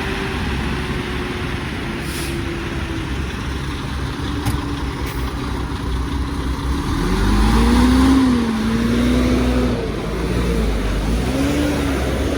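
Engines of loaded trucks passing on the road, one engine revving up and bending in pitch, loudest about eight seconds in, over a heavy low rumble.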